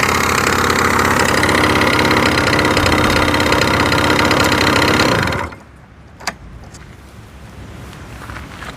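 Honda Leader AF03's 50cc single-cylinder two-stroke scooter engine idling steadily, then shut off and dying away about five seconds in, followed a second later by a single sharp click.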